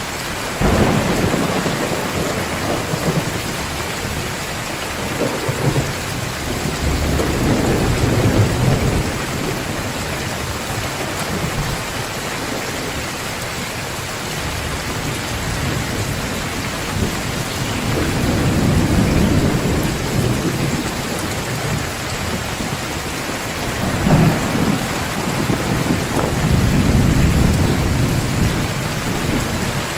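Heavy rain falling steadily in a thunderstorm, with rolls of thunder rumbling low several times: near the start, around eight seconds in, about twenty seconds in, and a longer roll near the end.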